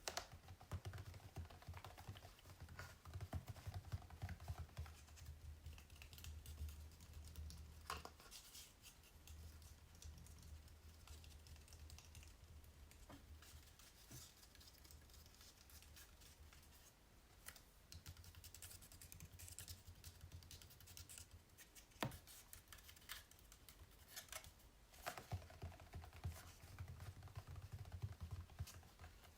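Fingers tapping and tracing over painted acrylic canvases: quick, light, irregular taps mixed with scratchy rubbing strokes. The sound is quiet throughout, with a few sharper taps.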